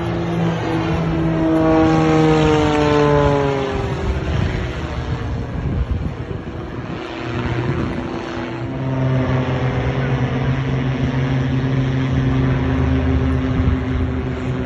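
Aircraft engine flying past, its pitch falling as it goes by, then a steady engine drone building again from about halfway through.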